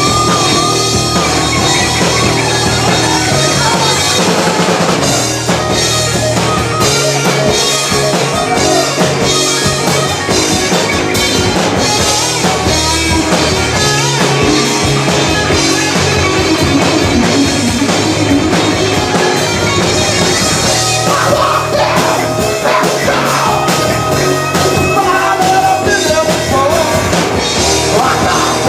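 Rock band playing live, loud and steady, with drum kit, electric guitar and sung vocals.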